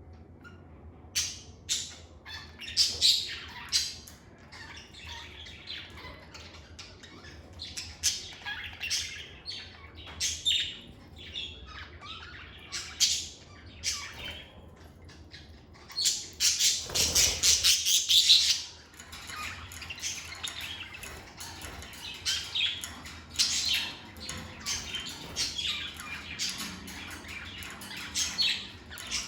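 Lovebirds chirping and squawking in short, high-pitched calls, with a louder, denser flurry of calls a little past the middle.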